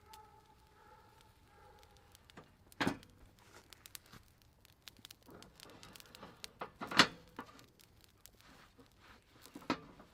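Cast-iron waffle maker and cooking utensils knocking and clinking as they are handled: three sharp knocks about three, seven and nine and a half seconds in, the middle one loudest, among lighter ticks.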